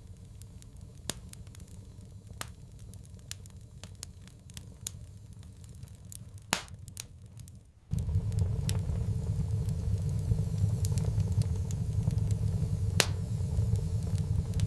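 Wood fire crackling, with irregular sharp pops. A steady low rumble cuts in abruptly about halfway through.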